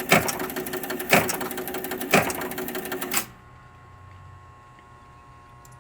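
The 1976 Williams Space Mission, an electromechanical pinball machine, cycling its relays and switches: rapid mechanical chatter with a loud clunk about once a second. It cuts off abruptly about three seconds in, leaving a low electrical hum.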